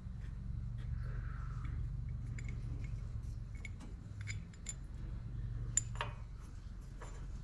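Hand tools clinking and tapping on metal parts in light, scattered strokes, with a sharper knock about six seconds in, over a steady low hum.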